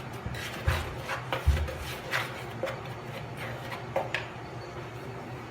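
A utensil stirring and scraping dry flour, yeast, sugar and salt around a bowl in irregular strokes, with two dull knocks in the first second and a half.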